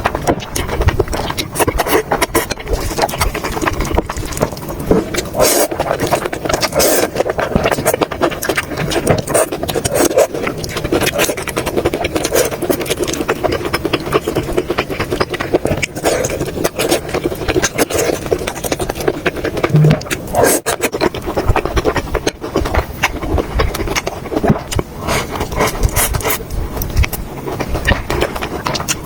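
Close-miked eating sounds: steady wet chewing and mouth smacking, a dense run of small clicks and crunches with no pauses.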